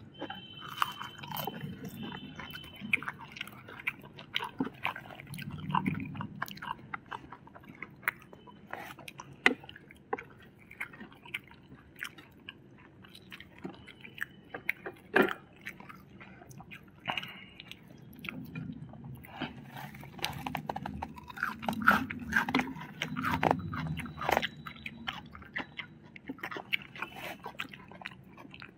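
Close-up chewing and biting of food, with many small sharp clicks and crunches. The food is fried chicken and noodles.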